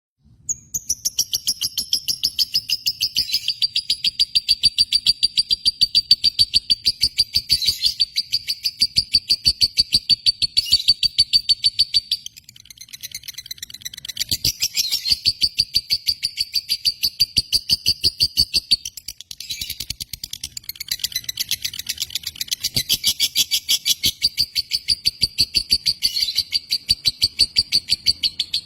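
Lovebird singing its long rapid chatter (the 'ngekek' prized in Indonesian lovebirds): fast, even, high chirps, about five a second, in long runs that break off briefly twice.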